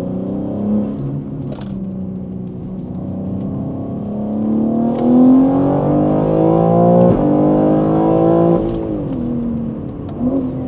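BMW G81 M3's twin-turbo S58 inline-six on catless downpipes and an equal-length midpipe, pulling hard under acceleration. The pitch climbs from about four seconds in, a brief crack comes about seven seconds in, and the revs fall away as the throttle closes near the end.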